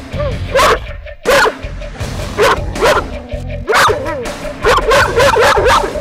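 A dog barking repeatedly, about nine short, sharp barks that come faster toward the end, with music playing underneath.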